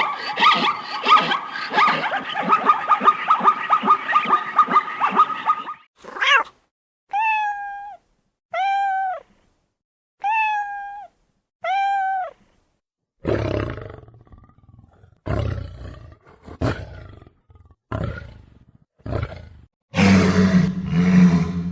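Animal calls in three runs: a dense, rapid chattering trill, then five short pitched calls about a second and a half apart, each rising then falling, then a series of short, rough roaring calls, the loudest near the end.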